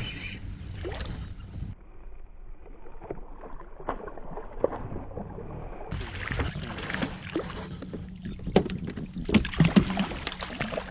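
Wind and water noise around a small fishing boat: a steady low rumble with scattered light clicks and knocks.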